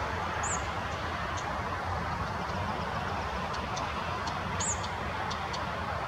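Steady outdoor rush with a low hum beneath it, broken by two short, high bird chirps, one about half a second in and one near five seconds, and scattered faint high ticks.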